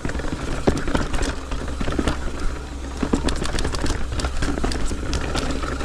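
Mountain bike descending a rocky trail: a steady low rumble of the tyres over rock and dirt, with frequent irregular clattering and knocking from the bike.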